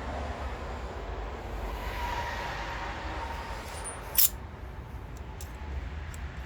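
Workshop handling noises over a steady low hum, with one sharp metallic click about four seconds in and a few fainter clicks after it.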